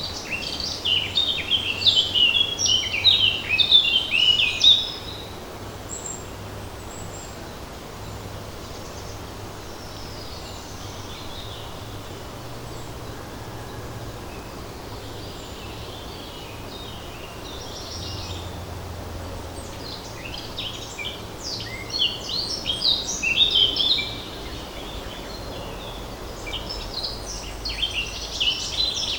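A songbird singing in three bursts of rapid, high chirping notes, each lasting a few seconds: at the start, about two-thirds of the way in, and again near the end. Faint steady forest background hiss runs beneath.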